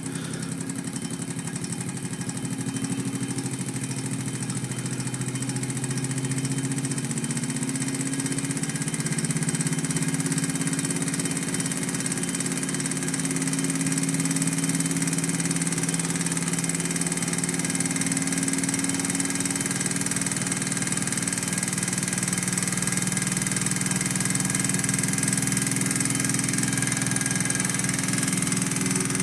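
Small candle-heated beta Stirling engine running fast and steady, a continuous rapid mechanical whir from its piston and flywheel, growing somewhat louder over the first ten seconds as it settles at speed. With its better-fitting piston it runs smoothly.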